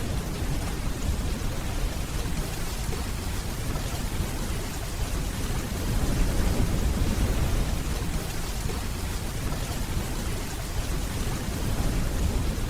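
Steady rainfall with a low rumble of distant thunder underneath, swelling slightly about halfway through.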